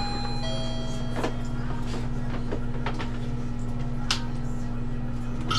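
Steady low machine hum, with a few faint clicks and two short high tones in the first half second.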